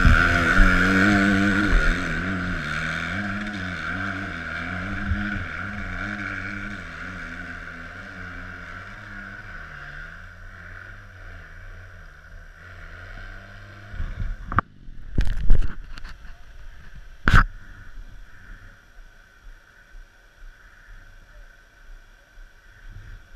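Dirt bike engine revving unevenly as the bike climbs, then fading steadily as it rides away. A few loud, sharp knocks come about two-thirds of the way through.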